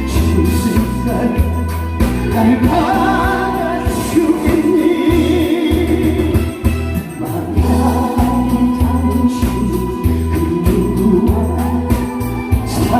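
A song performed live: a singer's voice over amplified musical accompaniment with a pulsing bass beat.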